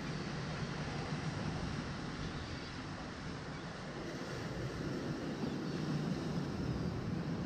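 Steady wind buffeting the microphone over waves washing against the shore, with no distinct events; the low rumble swells slightly from about four seconds in.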